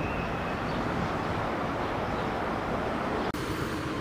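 Freight train of empty flat steel wagons rolling along the rails, a steady rumble. It cuts off abruptly just over three seconds in and a different steady background noise follows.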